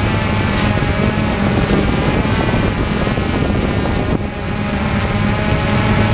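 Propeller aircraft in flight, its motors and propellers running at a steady pitch: a low steady hum with a stack of higher whining tones above it. The level dips briefly about four seconds in.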